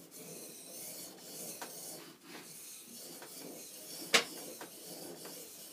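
Steel plane iron being honed on a soft Arkansas sharpening stone: a back-and-forth scraping that swells and dips with each stroke, roughly once a second. A sharp click sounds about four seconds in. This is the final touch-up of the edge.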